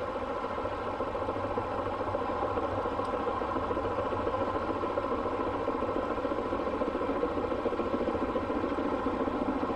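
Train running: a steady mechanical rumble and clatter without a clear beat, slowly growing a little louder.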